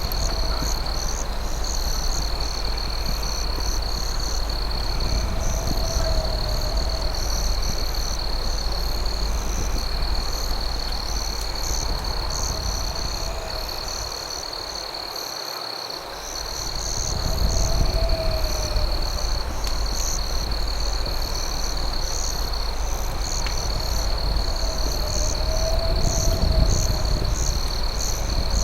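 Night insect chorus: a continuous high cricket trill with a faster pulsing chirp above it, and a short lower call repeating every few seconds. Under it runs a steady low rumble that drops away for a moment about halfway through.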